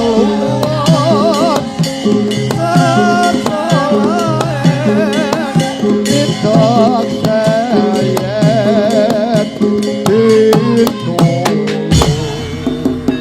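Javanese gamelan music for a lengger dance: a high, wavering sung melody over drums and struck percussion, with heavier drumming coming in near the end.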